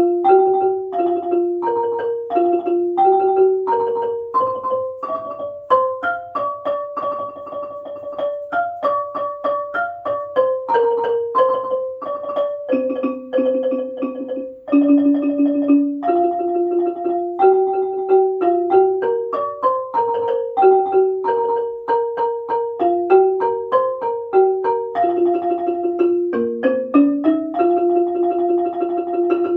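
Ranat ek, the Thai treble xylophone, played fast with two mallets striking in octaves, with stretches of rapid tremolo on held notes.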